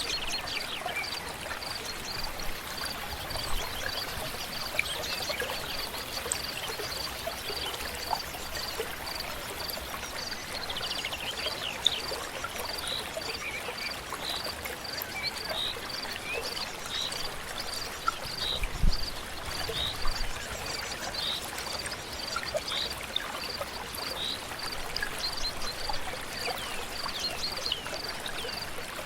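A stream flowing steadily, with birds chirping and a high note repeated evenly a little over once a second. A brief low thump sounds about two-thirds of the way through.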